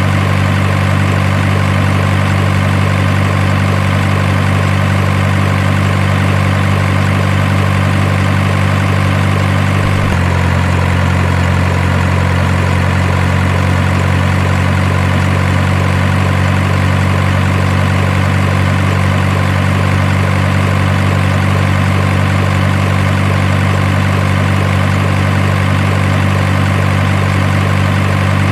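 Steady engine idling sound: a loud, unchanging low drone that shifts slightly in pitch about ten seconds in.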